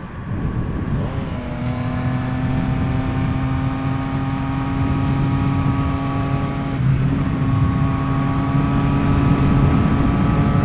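Yamaha MT-09's three-cylinder engine running through an Akrapovic carbon full exhaust at steady revs while riding. The note dips and settles at a new pitch about a second in, and changes again around seven seconds in.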